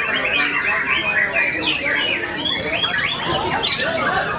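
Many caged songbirds singing at once in a competition, a dense, unbroken mass of overlapping whistles, chirps and trills.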